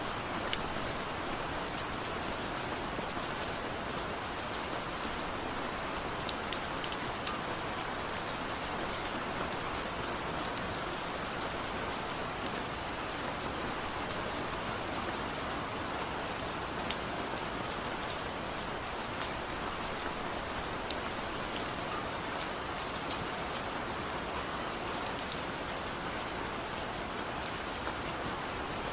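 Steady rain falling: an even hiss with frequent small, sharp ticks of single drops striking.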